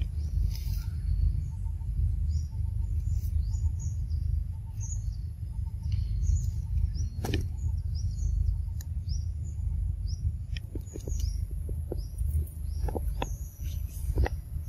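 Small birds chirping repeatedly in short, high notes over a steady low rumble, with a few sharp clicks in the second half.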